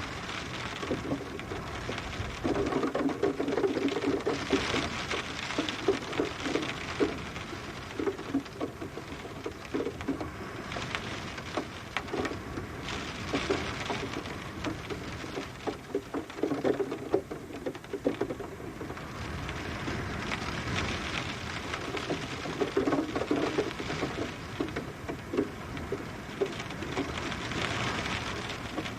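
Steady rain with dense pattering drops on a hard surface, swelling and easing in waves.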